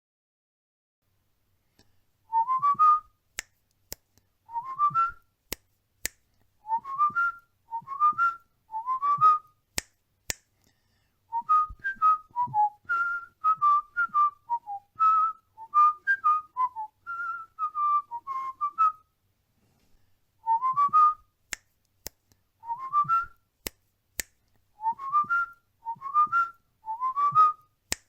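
Cockatiel whistling a tune: short whistled phrases of a few notes stepping upward, repeated with gaps, and a longer run of up-and-down notes in the middle. Brief sharp clicks fall between some phrases.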